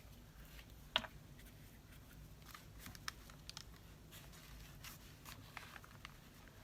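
Faint handling of paper and craft supplies on a desk: scattered small taps and clicks, with one sharper click about a second in, over a low room hum.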